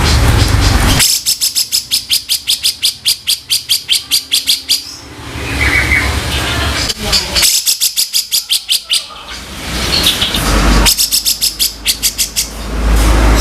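Grey-cheeked bulbul (cucak jenggot) giving harsh, rattling 'kasaran' calls: three bursts of rapid, evenly spaced notes, about seven a second, over a noisy background.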